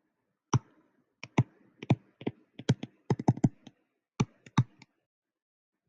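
Irregular run of about fifteen sharp clicks over some four seconds, several coming in quick clusters: keys being typed on a computer keyboard.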